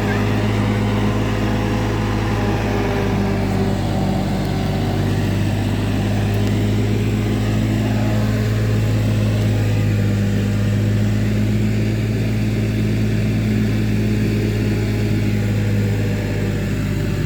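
Tractor engine running at a steady speed while driving a maize harvester.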